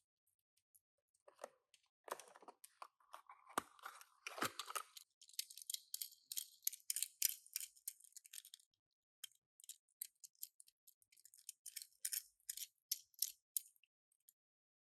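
Hands unboxing small die-cast Tomica toy cars: light taps and knocks, a few seconds of crinkly rustling of packaging, then a string of small separate clicks.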